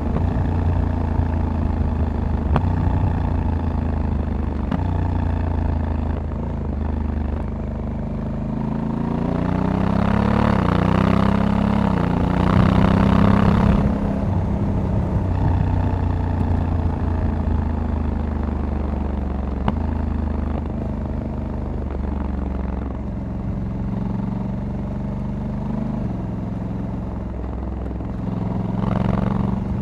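Honda Africa Twin 1100 DCT's parallel-twin engine running under way, its note rising and falling with throttle and gear changes. About ten seconds in the sound swells louder for a few seconds, with a rising engine note and a rushing noise over it.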